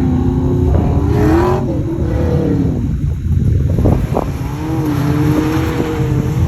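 Car engine on an autocross run, revving up and easing off over a heavy low rumble. The pitch climbs about a second in, falls away with a brief lift near three seconds, then builds again.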